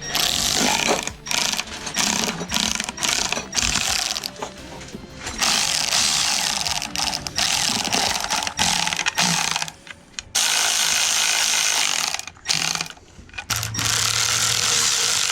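Ratchet wrench clicking in long runs as bolts are driven into a Subaru EJ255 engine's covers, with short pauses between runs.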